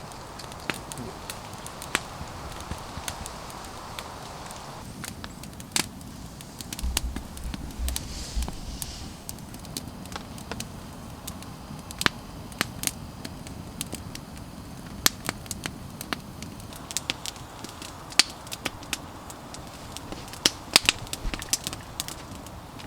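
Campfire crackling and popping, with sharp irregular snaps throughout. A brief low rumble about seven seconds in.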